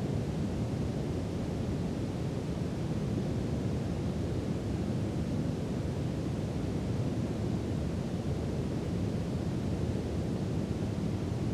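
Steady brown noise: an even, deep hiss weighted heavily toward the low end, with no change in level or character.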